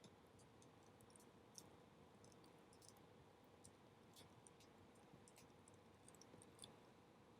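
Small wood bonfire crackling faintly, with irregular light pops and snaps several times a second, over a faint steady hum.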